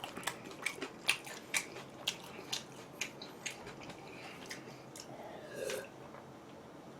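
Close-miked chewing of a chicken kebab in chewy ciabatta bread: moist mouth clicks about twice a second, which die away after about three and a half seconds.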